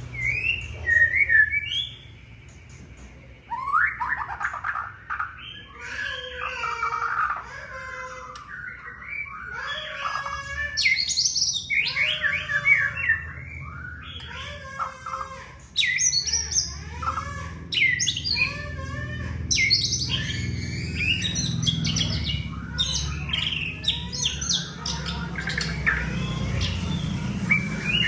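White-rumped shama (murai batu) singing a long run of varied phrases: clear whistled notes, fast trills and sweeping calls, with short pauses between phrases. A steady low hum lies underneath.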